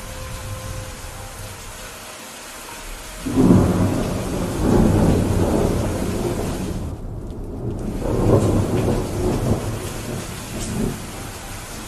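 Steady rain falling, then about three seconds in a loud clap of thunder that rolls on in waves, swelling again twice before fading back under the rain.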